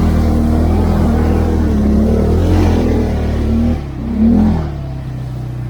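CFMOTO 520L engine running under throttle, pitch shifting a little, with a brief rev about four seconds in before dropping back to a lower, steady idle near the end.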